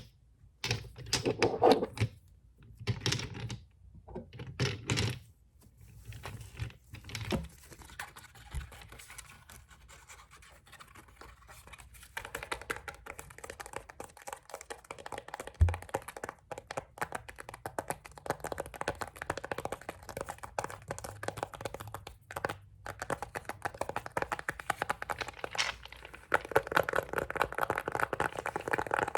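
Fast tapping and scratching on nail polish bottles: bursts of rapid taps in the first several seconds, then from about twelve seconds a continuous fast flurry of tapping and scratching. A single low thump falls near the middle.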